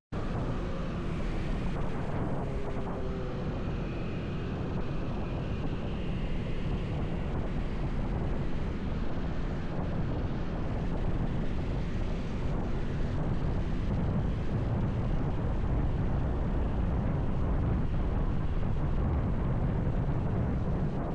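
Motorcycle riding at speed: wind buffeting the action camera's microphone over the engine and road noise, a steady low rush.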